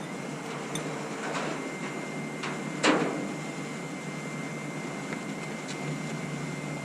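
A single sharp knock about three seconds in, with a few lighter clicks before it, over a steady hum and a faint high steady whine.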